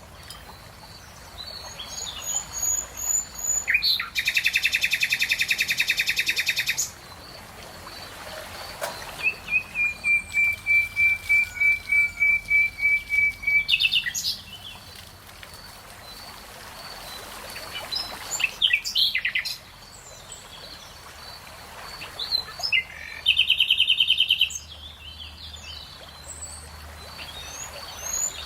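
Songbirds singing in rapid repeated trills, several phrases in turn. One phrase near the middle is a long, even run of notes lasting about four seconds. A faint, steady, high pulsing note runs underneath.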